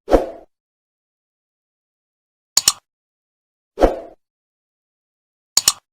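Short sound effects from a subscribe-button end-screen animation: a soft thump, a quick double click, another thump, then another quick double click, with silence between.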